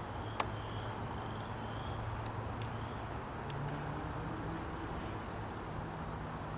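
Outdoor ambience: faint repeated bird chirps over a steady low hum, with one sharp click shortly after the start.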